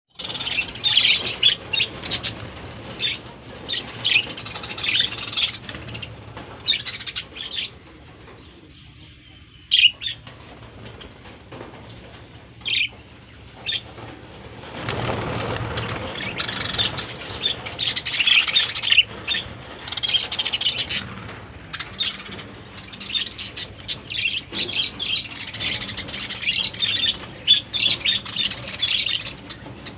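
Small birds chirping over and over in many short, high chirps, thinning out for a few seconds near the middle. A brief rush of noise a little past halfway.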